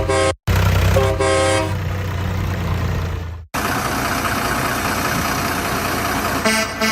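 Vehicle horn tooting in two short blasts over a steady low engine rumble, cut off abruptly. It is followed by a noisier mechanical rush, with another horn-like tone near the end.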